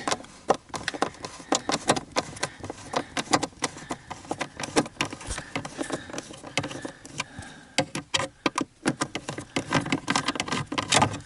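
Irregular clicking and rattling of a hand tool and plastic trim parts being worked under a car dashboard, around the heater blower motor's fixing screw.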